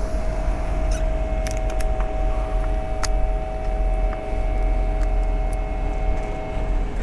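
Electric bike riding along: a low rumble of wind on the microphone with a steady whine from the hub motor and light rattles and clicks from the bike.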